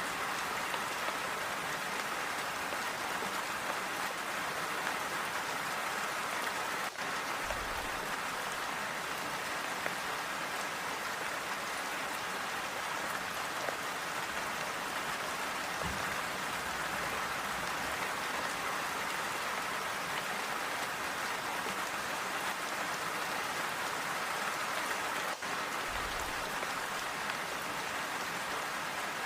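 Steady, even rainfall, a constant patter of drops with no thunder. A few brief low thuds come through the rain.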